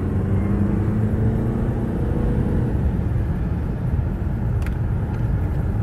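TDI turbodiesel car engine pulling under load, heard from inside the cabin over a steady low road rumble. Its note rises for the first couple of seconds and then drops away. A single click comes near the end.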